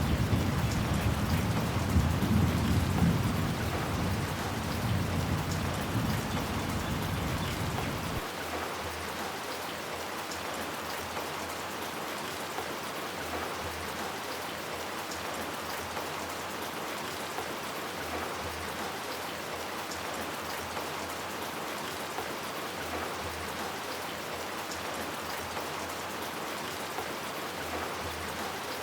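Steady rain falling, an even hiss. For the first eight seconds a deep rumble of thunder sounds under it and fades, then cuts off abruptly, leaving the rain alone.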